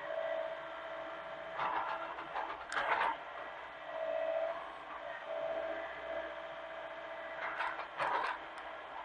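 Hitachi mini excavator running steadily with a constant drone, with several short bursts of clatter from the machine working, two clusters about two seconds in and again near the end.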